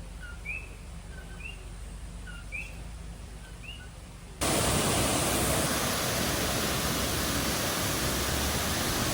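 Coquí frogs calling a repeated two-note 'co-kee', a low note then a higher rising one, about once a second. About four and a half seconds in, the sound switches abruptly to a loud, steady rushing noise that covers all pitches and cuts off sharply at the end.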